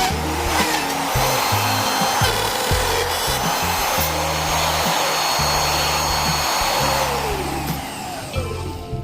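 Electric router running steadily with a high whine while cutting into the guitar body's wood, then spinning down with a falling pitch near the end. Background music plays underneath.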